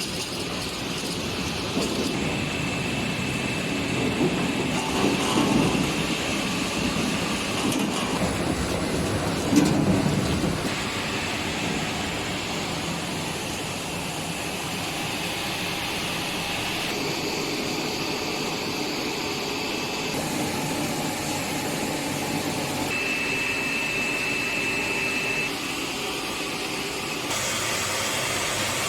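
Pomegranate washing and deseeding machine running: a steady mechanical noise with a faint high whine in places. The sound changes abruptly several times, with a brief louder bump about ten seconds in.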